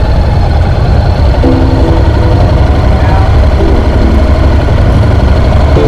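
Honda NC750X motorcycle running steadily while riding, its engine mixed with a loud, low wind rumble.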